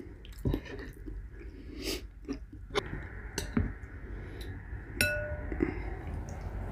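Close-miked chewing and mouth sounds of someone eating chili beans and cornbread, with scattered small clicks and smacks. About five seconds in, a spoon clinks against the bowl with a short ring.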